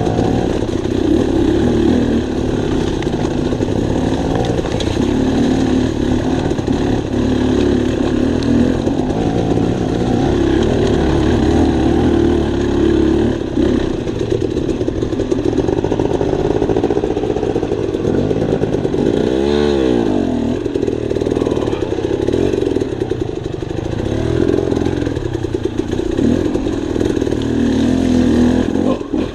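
Dirt bike engine running while riding a trail, its pitch rising and falling with the throttle. About two-thirds of the way through the engine note drops sharply and climbs back.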